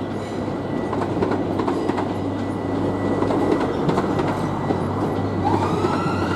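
Southeastern electric multiple-unit train running past, a steady rumble with wheels clicking over rail joints. A rising whine comes in near the end.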